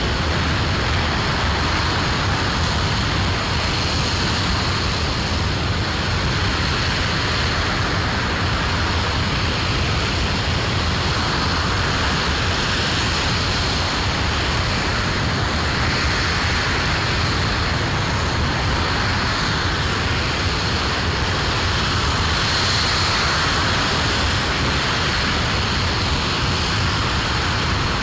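RS-25 liquid-hydrogen/liquid-oxygen rocket engine firing steadily on the test stand: a loud, even rumbling noise that holds the same level throughout.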